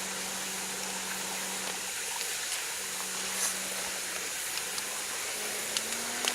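Mountain stream water rushing steadily, with a faint steady low hum underneath and a few light clicks.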